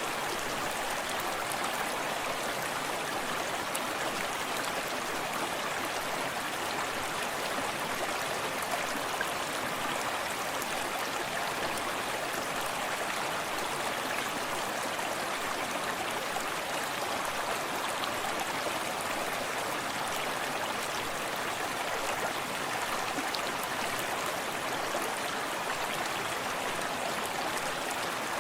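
Forest stream running steadily over rocks, a continuous even rush of water with fine splashing and gurgling detail.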